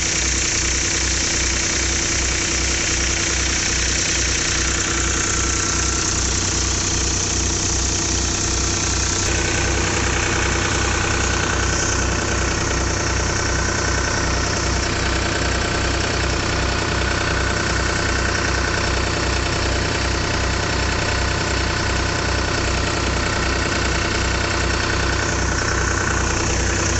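Diesel engine of a Powertrac Euro 45 Plus tractor running steadily under load, driving a wheat thresher, with an even low pulse of about two beats a second. A higher steady whine from the machinery comes in about nine seconds in.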